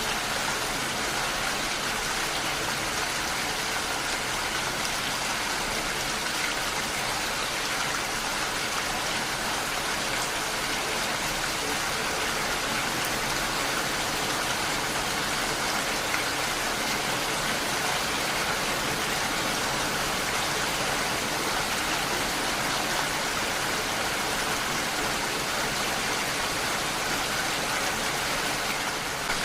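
Heavy rain falling steadily, a dense, even hiss of rain with no breaks.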